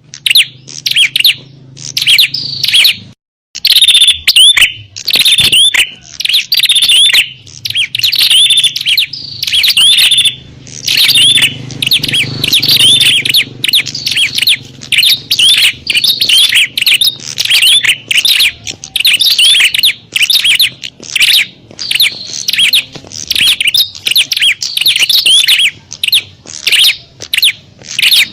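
Prenjak (prinias) calling in a rapid, nearly unbroken stream of sharp, high chirps: the agitated, noisy calls of fighting birds, used as a lure to draw in wild prinias. There is a brief pause about three seconds in.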